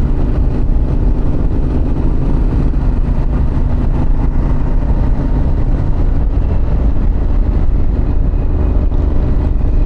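2024 Harley-Davidson Pan America's 1250 cc V-twin engine running at a steady cruise.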